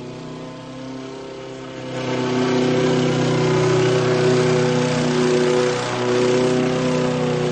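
Propeller aircraft engine droning steadily, growing louder about two seconds in and holding.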